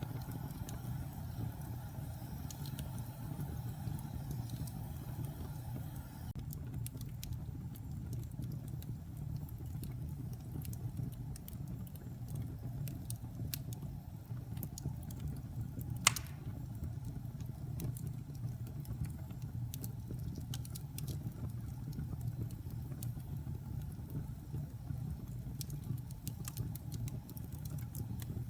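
Wood fire burning in a fireplace: a steady low rumble of flames with scattered small crackles, and one loud sharp pop about 16 seconds in.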